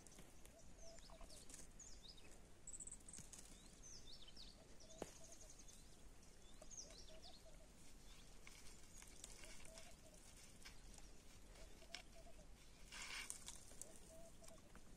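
Faint birdsong: many short, high chirps and whistles, with a lower short call repeating every second or two.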